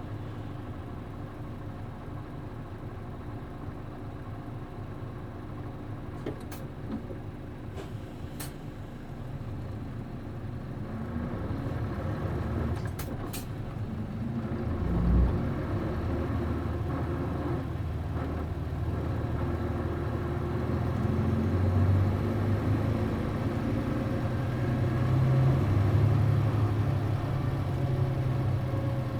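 MD92TJ diesel engine of a city bus idling at a stop, with a few sharp clicks, then a low thump about halfway through. The engine then pulls away, running louder and stronger toward the end.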